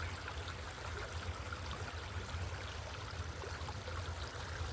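Creek water running and trickling steadily, with a constant low rumble underneath.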